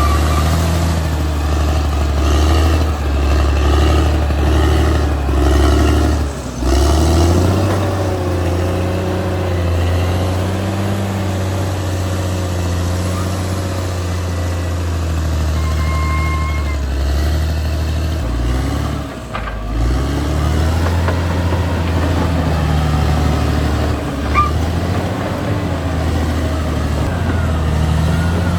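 Caterpillar D6R XL bulldozer's diesel engine running steadily under load as it works, its pitch dipping briefly about six seconds in and again about twenty seconds in.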